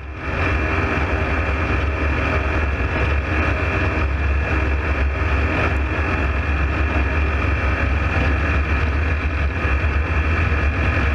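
A running engine: a steady, loud low rumble with a constant high whine over it.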